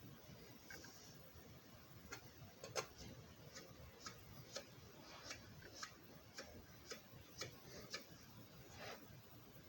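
Faint, even ticking, about two clicks a second, starting about two seconds in and stopping near the end, over near-silent room tone.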